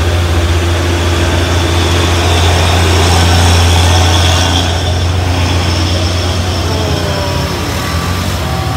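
Heavy diesel truck engine working under load on a steep climb: a deep steady drone that grows louder towards the middle and eases off in the second half.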